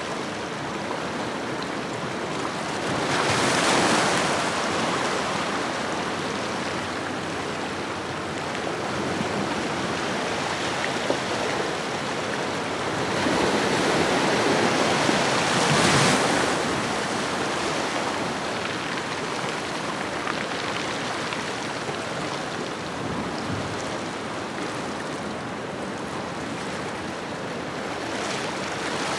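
Ocean waves washing on a shoreline: a steady surf hiss, with two waves swelling louder, one about three seconds in and another building from about thirteen to sixteen seconds.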